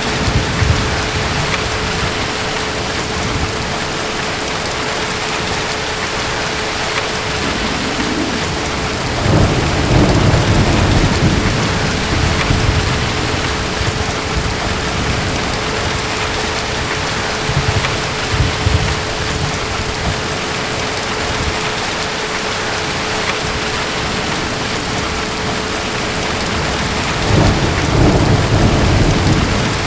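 Steady heavy rain with distant thunder rumbling low, swelling about ten seconds in and again near the end, with a smaller rumble in between.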